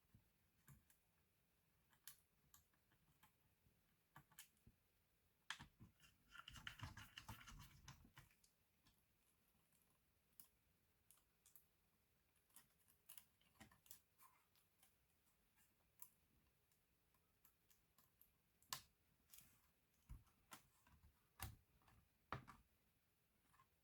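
Faint scattered clicks and taps of small laptop parts and tools being handled, with a short stretch of rustling or scraping about six seconds in.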